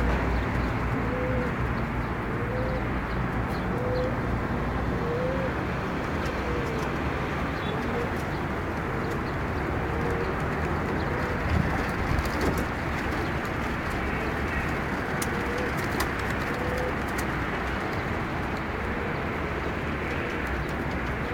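Pigeons cooing: short, arched coos repeating about every second and a half, over a steady background hiss.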